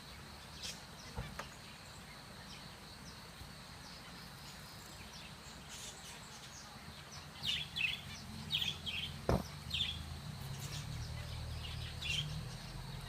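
Small finches giving short, high chirping calls, scattered at first and coming in a quick cluster in the second half. A single sharp click about two-thirds through, over a steady low hum.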